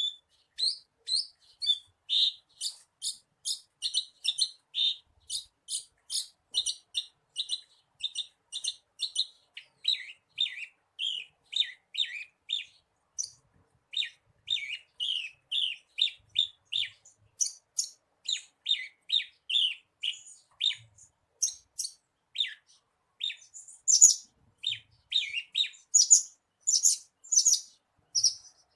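Horsfield's bush lark (branjangan) singing: a long, unbroken run of short, quick chirps, about three a second, with a couple of brief pauses. The notes grow louder and higher near the end.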